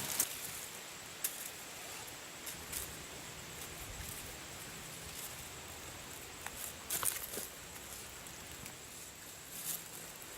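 Quiet outdoor background with a few faint, scattered rustles and clicks, the clearest about seven seconds in.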